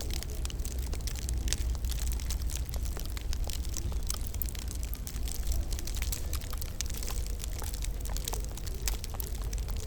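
Wood fire crackling in a fireplace: a steady stream of small sharp pops and snaps over a constant low rumble and soft hiss.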